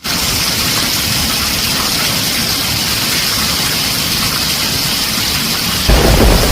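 Heavy rain falling steadily on a tin roof, a dense even hiss. Near the end a louder low rumble of thunder comes in.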